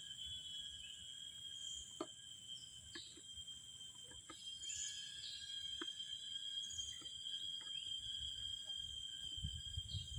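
Steady high-pitched insect drone with short bird chirps over it, a few light clicks, and a low rumble near the end.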